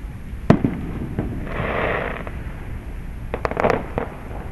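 Distant fireworks: one sharp bang about half a second in, a few smaller pops, a hissing crackle around two seconds in, then a quick run of cracks near the end, over a steady low rumble.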